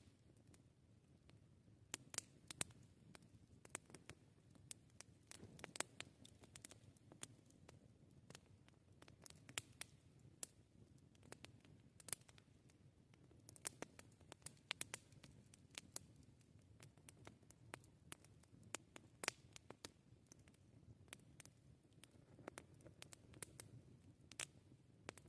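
Campfire crackling faintly: sparse, irregular sharp pops and snaps over a low, steady background rumble.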